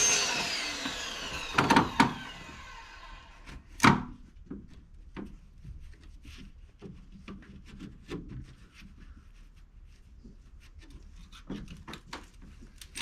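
A power tool's whine winding down in the first second, then sharp knocks, two close together about two seconds in and one louder one near four seconds. After that comes a long run of small, scattered knocks and rubbing as material is worked and handled.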